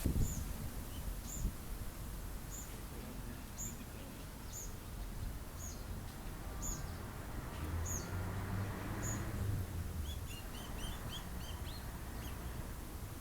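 Small birds chirping: one repeats a short, high chirp about once a second, and a quick run of lower chirps comes about ten seconds in. Under it is a steady low rumble of wind on the microphone.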